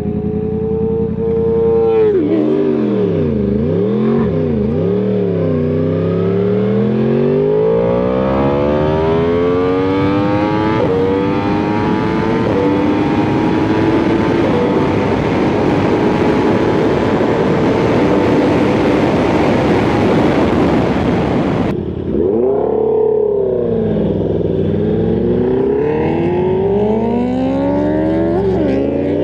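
Sport-bike engine revving up and down in quick swings. It then pulls in one long climb in pitch through several gear changes under rising wind rush. Near the end the rush cuts off suddenly and the revs swing up and down again.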